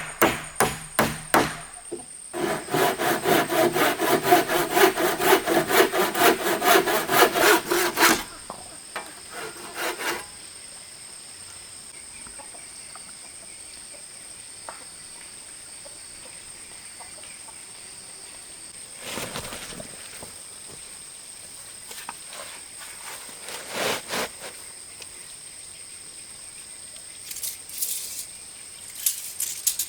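Hand woodworking: a quick run of sharp strikes on wood, then about six seconds of rapid back-and-forth sawing strokes through wood that stop suddenly, followed by a few scattered knocks.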